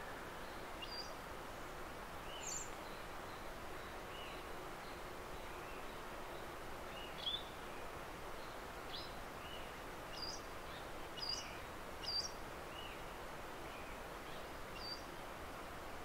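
Small birds giving short, high chirps, scattered irregularly over a steady background hiss of forest ambience, with a few louder calls in the second half.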